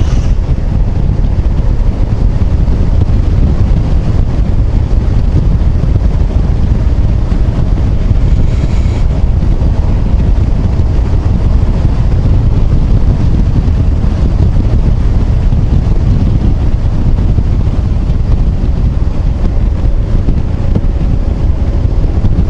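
Heavy, steady wind rumble on the microphone while riding a Yamaha XMAX 250 scooter at road speed, with the engine and tyre noise underneath.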